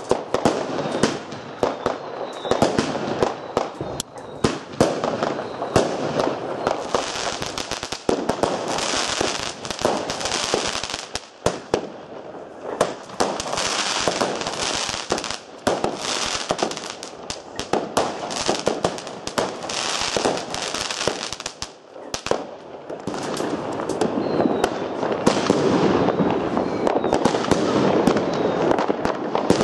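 Consumer fireworks firing shot after shot: a dense run of bangs and pops over crackling, with stretches of high hissing and brief lulls between volleys.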